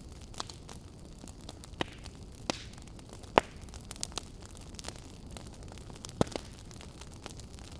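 Campfire burning: a steady low rumble with irregular sharp pops and crackles, the loudest about three seconds in and another past the sixth second.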